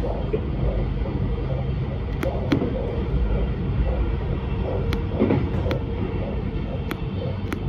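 Inside an Alstom X'Trapolis electric suburban train running along the line: a steady rumble with a faint steady tone and scattered sharp clicks.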